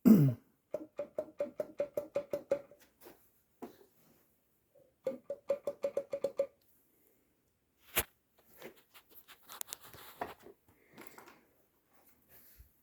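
1954 Brooklure 12 hp outboard engine giving two runs of quick metallic clicks, about six a second, each with a short ring, then one sharp knock and some scattered light rattling. The owner takes the knocking for a loose connecting rod slapping in the bottom cylinder.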